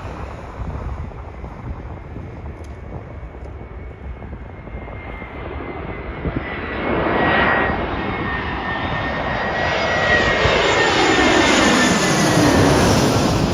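Airbus A321 jet airliner's engines growing louder as the aircraft comes closer and passes, peaking near the end. A high whine slowly falls in pitch as it goes by.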